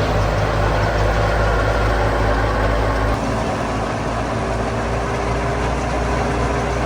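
Heavy farm machinery running steadily: a diesel engine's hum under the clatter and rush of threshing or harvesting machinery. The sound changes abruptly about three seconds in.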